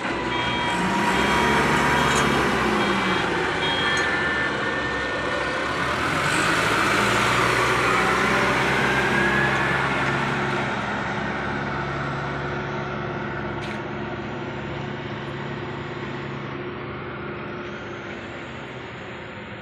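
Heavy truck running, a steady low engine drone with road and traffic noise. A rising whine comes in about a third of the way through, and the whole sound slowly fades over the second half.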